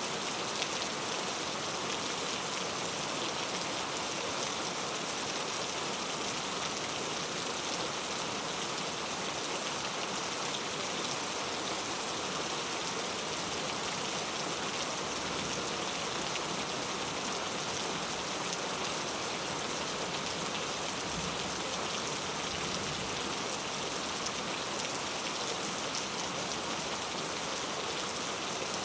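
Steady rain ambience: a continuous, even patter of rain falling on a surface.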